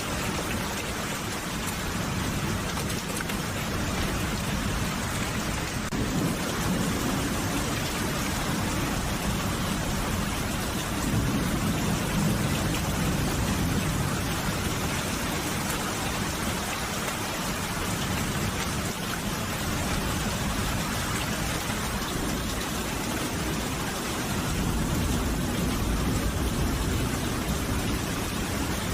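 Steady rain falling, with low rolling rumbles of thunder swelling up twice, about six seconds in and again near the end.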